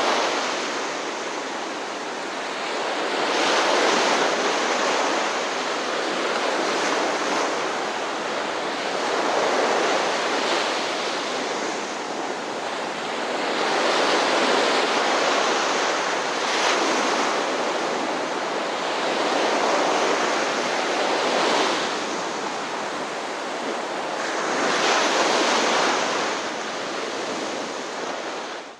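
Ocean surf, waves breaking and washing ashore in swells that come every three to four seconds; the sound cuts off suddenly at the very end.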